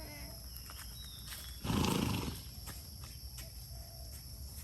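A horse blows out once through its nostrils, a short noisy snort about two seconds in, over a steady high buzz of insects.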